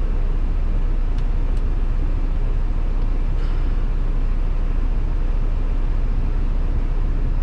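Steady in-cab drone of a semi truck under way: engine and road noise, low and constant, with a few faint ticks.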